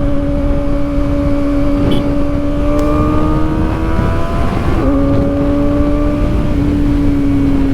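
Kawasaki Ninja ZX-4RR's inline-four engine running at steady, moderate revs on the move, the engine note drifting slowly up, breaking briefly about five seconds in, then easing down, over a low wind rush.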